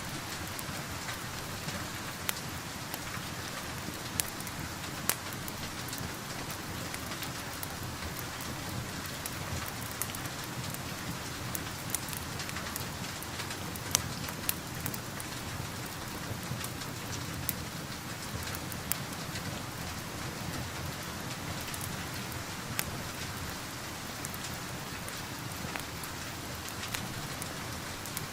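Steady rain with a crackling wood fire: an even hiss of rain with scattered sharp pops and crackles, a dozen or so standing out clearly.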